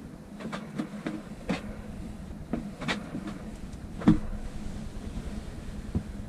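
Irregular knocks and bumps as a 12-volt marine fridge freezer is handled and fitted into a wooden cabinet, the loudest about four seconds in, over a steady low hum.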